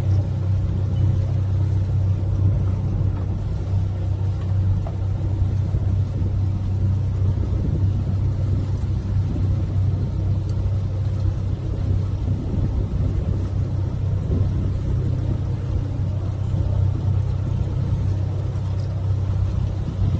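Canal tour boat's motor running at steady cruising speed, a constant low drone with a faint wash of water and background noise.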